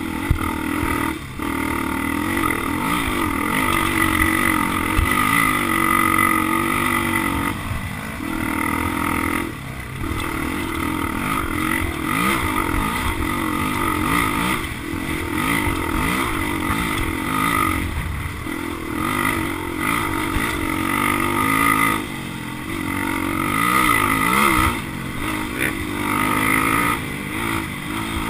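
Motocross dirt bike engines revving up and down, the throttle rising and falling with brief cuts every few seconds.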